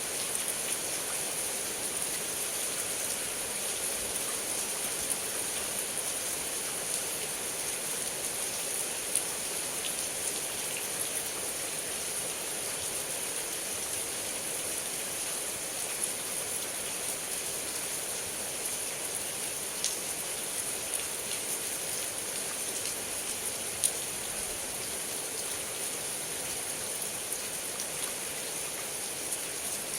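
Heavy rain falling steadily: an even hiss, with a sharper tick now and then from a drop landing close by.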